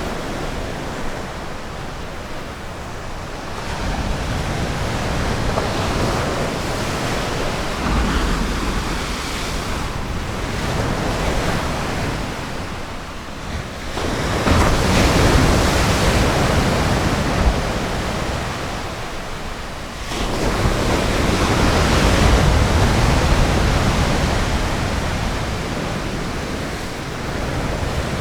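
Ocean waves breaking on a beach: a steady wash of surf that swells and fades every few seconds, loudest about halfway through.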